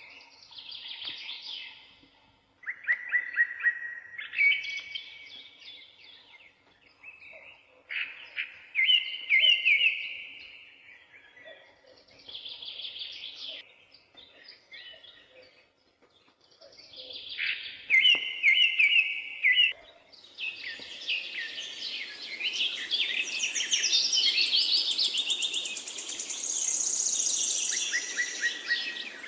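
Songbirds singing in short repeated chirping and trilling phrases with brief pauses between them. About two-thirds of the way in, several birds sing at once and a steady hiss comes in underneath.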